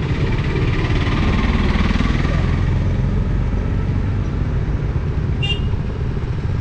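KTM 200 single-cylinder motorcycle running steadily on the move, under a heavy low rumble. A brief high beep sounds about five and a half seconds in.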